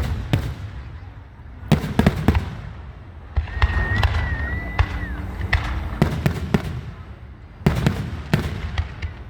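Fireworks display: aerial shells bursting with sharp bangs and crackles in several clusters over a low rumble. A thin high whistle holds for about two seconds near the middle, dipping at its end.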